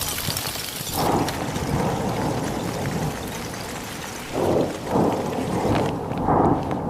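A steady rushing noise with deep rumbles that swell about a second in and three more times in the second half; the high hiss drops away near the end.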